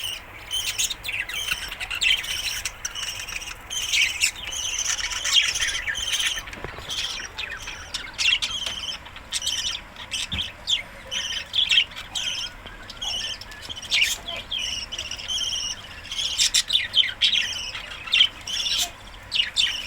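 Budgerigars chattering: a flock keeps up a busy run of short chirps, warbles and squawks.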